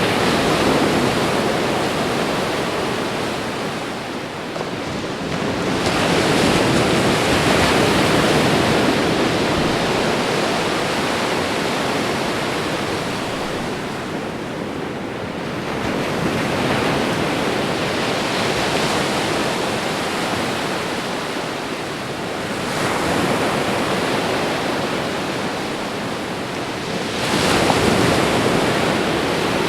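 Ocean surf: a continuous rushing wash of breaking waves that swells and eases every several seconds, with a sharper surge near the end as a wave breaks.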